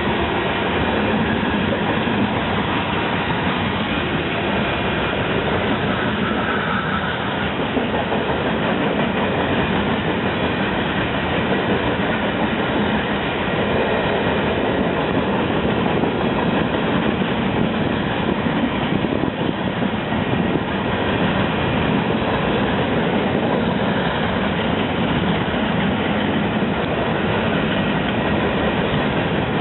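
A train's cars rolling past on the tracks, a steady loud rail noise without letup.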